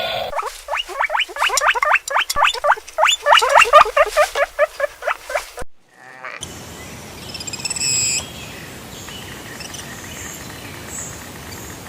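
An animal calling in a fast series of short rising calls, several a second, for about five seconds. After a break, a steady outdoor hiss follows with a few faint high chirps.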